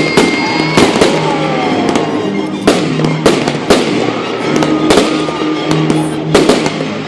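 Aerial fireworks going off in a rapid, irregular string of sharp bangs and crackles, with a few whistles gliding down in pitch, over music playing.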